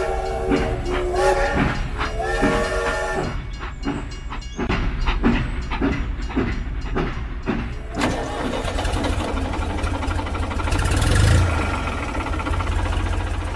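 A train whistle sounds in short toots, then comes a run of quick clacks, and from about eight seconds in a low engine runs steadily.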